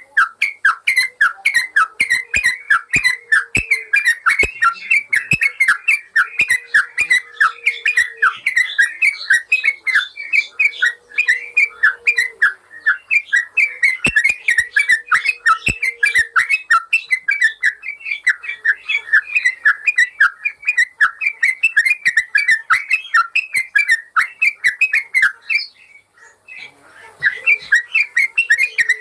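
Yellow-vented bulbul (trucukan) song: a fast, unbroken string of short chirping notes, the rapid 'ropel' style used as a masteran to tutor caged birds, breaking off briefly about 26 seconds in.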